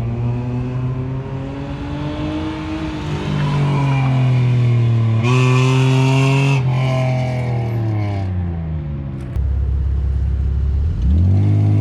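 A car's engine on an autocross run, very loud with no mufflers, accelerating hard with the pitch climbing and a sudden change about five seconds in, loudest just after it. It then lifts off with the pitch falling, drops to a low steady note, and revs up sharply again near the end.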